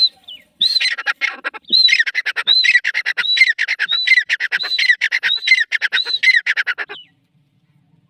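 Grey francoline (teetar) calling: one high note, then a loud run of about eight repeated harsh phrases, each a high ringing note followed by a fast rattling stutter. It stops about seven seconds in.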